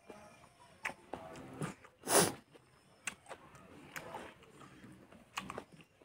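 Close-miked eating of fatty pork with rice and boiled mustard leaves: chewing with small wet mouth clicks. There is one short, loud burst about two seconds in.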